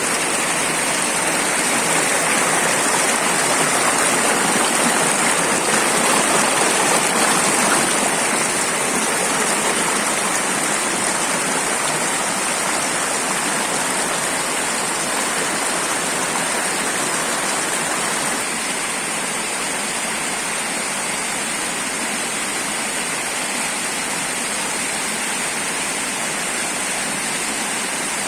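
Waterfall: falling water rushing steadily, a little louder in the first several seconds and easing slightly about eighteen seconds in.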